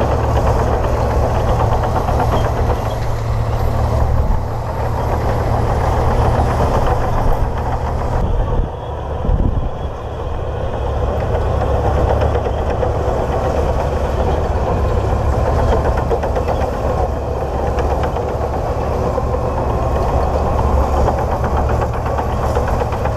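Komatsu D58P bulldozer's diesel engine running steadily with a deep rumble, its level dipping briefly about four seconds and again about nine seconds in.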